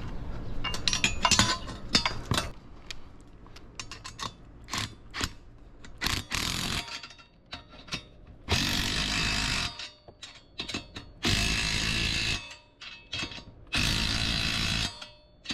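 An exhaust clamp on a dirt bike's muffler being tightened with a hand tool: scattered metal clicks and clanks at first, then about five bursts of about a second each as the clamp bolt is run down.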